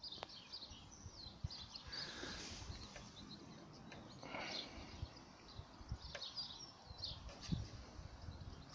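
Small birds chirping and calling in short, quick bursts, with occasional low knocks and rumble underneath.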